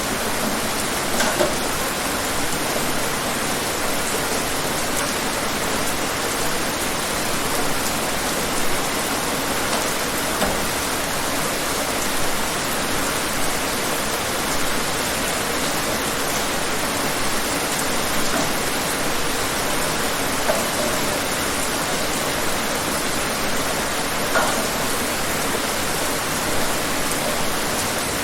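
Steady rain falling, an even hiss with now and then a louder single drop.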